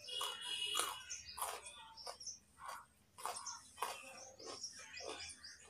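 Raw carrot being chewed with the mouth closed: a run of crisp crunches, roughly one every two-thirds of a second.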